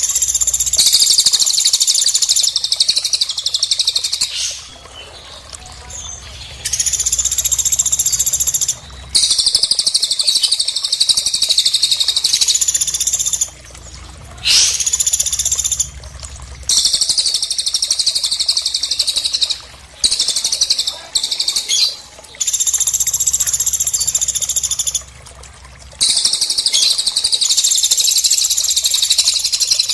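Bird calls of the kind used for masteran training of songbirds: about nine bouts of rapid, dense, high-pitched chirping and trilling, each lasting one to four seconds, with short pauses between them.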